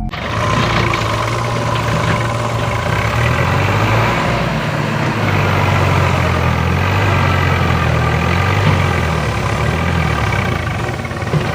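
A heavy engine idling with a steady low rumble. It starts abruptly as the music stops.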